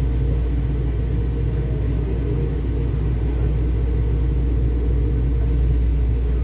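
Steady low rumble of an airport people-mover train running along its guideway, heard from inside the passenger car.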